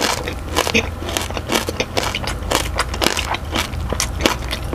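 Close-miked chewing of crispy deep-fried pork belly (lechon kawali), the crackling skin crunching in many quick, irregular crunches.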